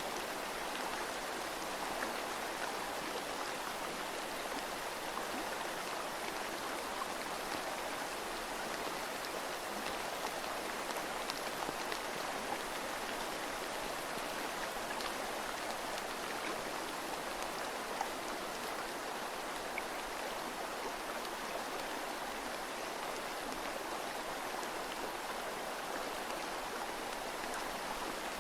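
Steady water ambience: an even rushing hiss with occasional faint ticks.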